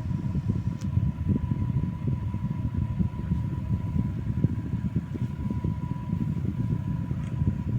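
Electric fan running steadily, its airflow buffeting the microphone as a low rumble, with a faint steady whine above it.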